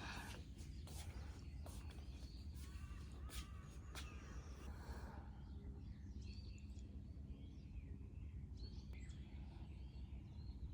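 Faint birds chirping in short scattered calls over a steady low hum; about five seconds in, a background hiss drops away, leaving the chirps clearer.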